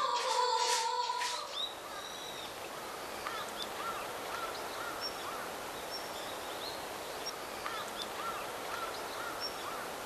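Open-air hillside ambience: a steady hiss with small birds giving short chirps over and over at irregular intervals.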